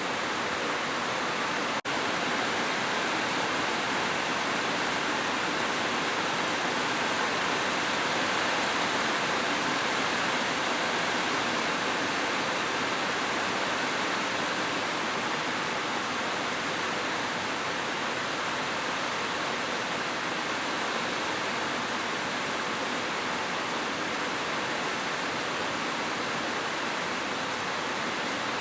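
Heavy rain falling as a steady, even hiss, with a momentary dip in level about two seconds in.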